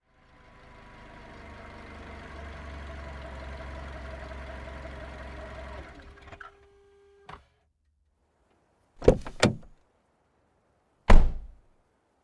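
Car engine running with a steady low rumble, then switched off about six seconds in, followed by a small click. Car doors then shut with two loud thuds close together, and another about two seconds later.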